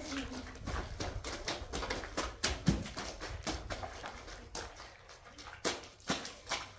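A run of irregular knocks and clicks, a few to several a second, with a few sharper, louder ones, over a low background rumble.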